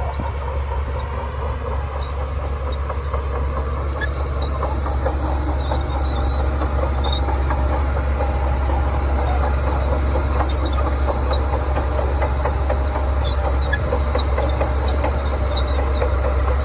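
Shantui DH17C2 bulldozer's diesel engine running steadily with a deep hum, under a dense rattle and clanking of its steel tracks, which grows busier and a little louder a few seconds in.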